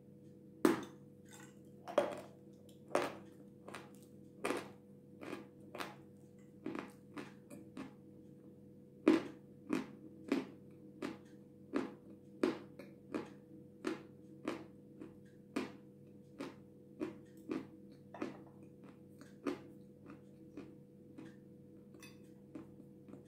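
A mouth chewing a dry, powdery lump of edible clay (Jasmin): a regular run of crisp crunches, about one a second, the loudest about nine seconds in. A faint steady hum lies underneath.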